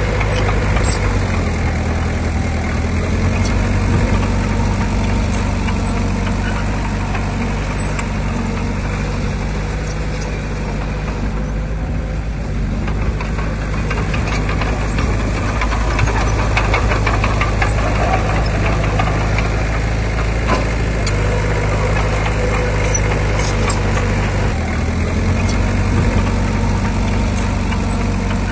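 Heavy diesel engine of earthmoving machinery running steadily with a deep, even note.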